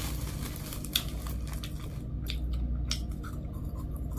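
Popcorn being chewed, a few short crunches as it is bitten, over a steady low hum.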